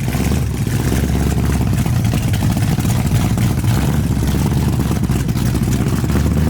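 Chevy 502 big-block V8 of a Model T rat rod running loud and steady, a rapid, choppy low rumble.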